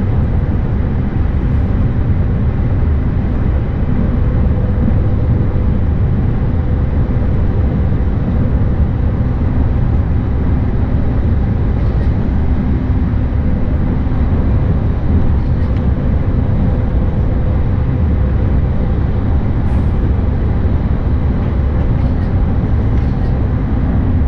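E531-series electric train running at steady speed, heard from inside the carriage: a constant low rumble of the running gear with a faint steady hum.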